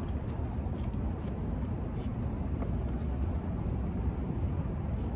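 Steady low rumble of a running vehicle engine, with faint scattered small clicks over it.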